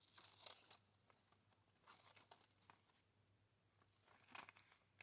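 Faint rustling of paper being handled, in a few short bursts.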